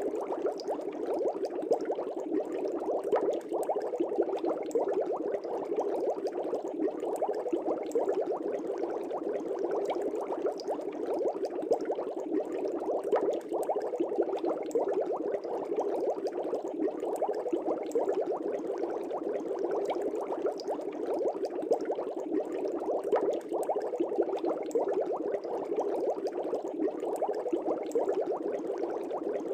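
Air bubbles streaming up through an aquarium fish tank, a continuous dense bubbling full of tiny pops, steady throughout.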